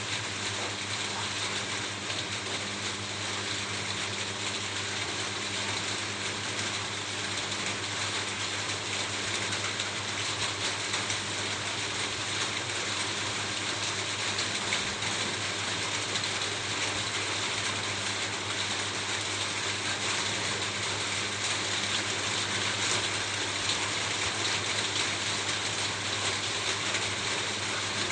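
Steady rain falling on a roof: a dense, even mass of small drop ticks, with a faint low hum underneath.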